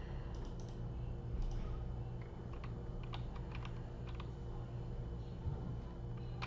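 Typing on a computer keyboard: irregular, light keystrokes over a steady low hum.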